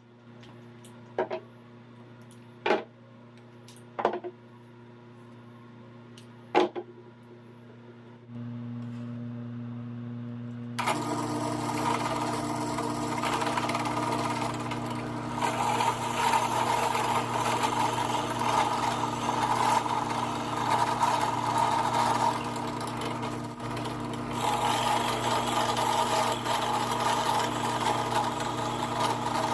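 An electric woodworking power tool: a low hum with four sharp clicks, the hum stepping up about 8 seconds in, then a loud, noisy whir that starts suddenly about 11 seconds in and carries on.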